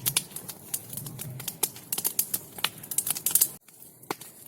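Burning bonfire crackling: irregular sharp pops and snaps several times a second. The level drops abruptly about three and a half seconds in, with fewer pops after.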